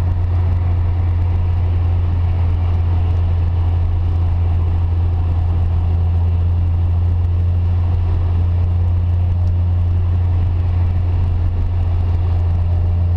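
Car driving at a steady speed: a constant low engine drone with road and tyre noise over it.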